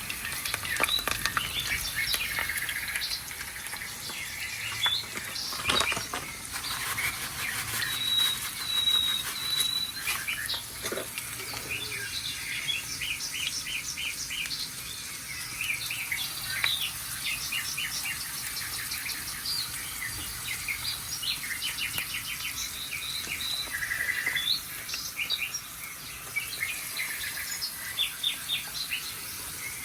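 A chorus of small songbirds chirping and twittering continuously, with quick trills and a few thin, held whistles.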